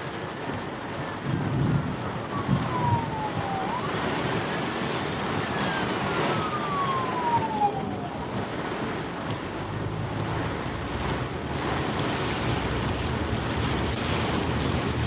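Emergency vehicle siren on a slow wail passing by: the tone falls over about three seconds, sweeps quickly back up and falls again, fading out about eight seconds in. Under it, a steady hiss of rain and road noise.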